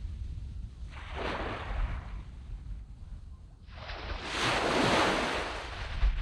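Sea waves washing onto a sand beach: a small wave about a second in, then a bigger one that breaks about four seconds in and hisses up the sand before fading. Wind buffets the microphone throughout with low rumbles.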